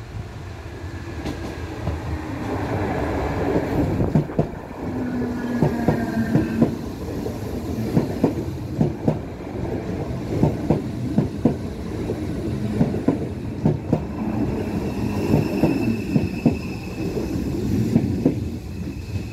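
A DART electric commuter train running past close by. Its rumble builds as it approaches, then its wheels clatter over the rail joints and crossing in a long run of sharp clicks, often in pairs, with a faint high whine at times.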